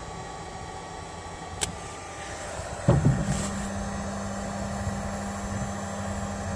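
Electric heat gun blowing on heat-shrink tubing over a crimped jumper-cable lug: a steady hiss, a sharp click, then about three seconds in a louder start and a steady low motor hum.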